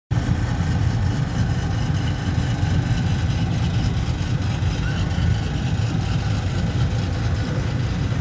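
A car engine idling loudly and steadily with a deep rumble, cutting in abruptly at the start.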